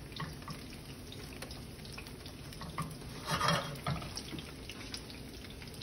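Frying sizzle: melted butter bubbling around slider buns toasting in a stainless skillet, with breaded oysters frying in hot oil in a second pan. A steady hiss with small crackles and pops, and a louder burst about three and a half seconds in.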